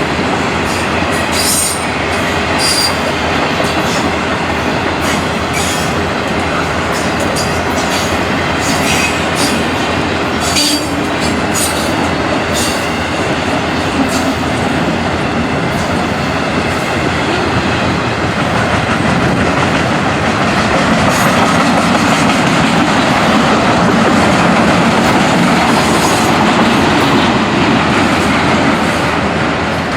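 Freight train rolling past, its steel wheels clicking over rail joints, with short high squeals scattered through the first half; the sound grows a little louder in the second half.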